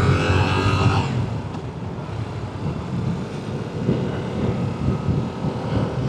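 Yamaha R7 motorcycle's parallel-twin engine running at a steady cruise, with road and wind noise.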